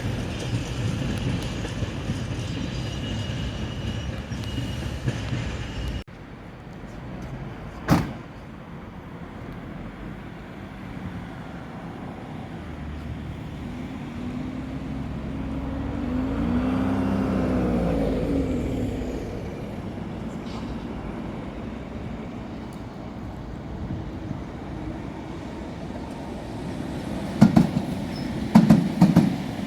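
Railway noise from trains passing: a train runs by, then after an abrupt cut comes a quieter rumble with a sharp click. Another train swells past and fades, and loud irregular knocks follow near the end.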